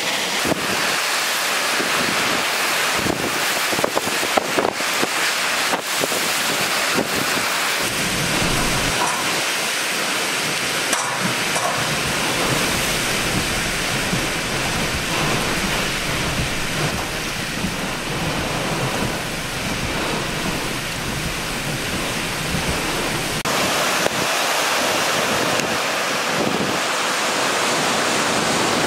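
Hurricane Ian's heavy rain and wind: a steady, loud rush of downpour with gusts buffeting the microphone. Near the end it gives way to the rush and splash of a car wading through floodwater.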